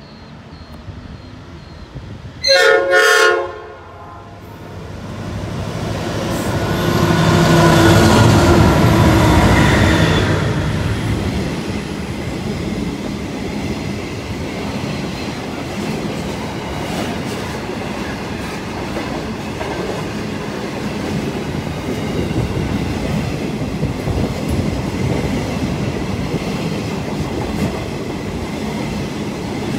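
Diesel freight train led by 93-class locomotive 9323 with three 82-class units: its horn sounds briefly about two and a half seconds in. The locomotives' engines swell and pass, then a long rake of coal hopper wagons rolls by steadily, wheels clacking over the rail joints.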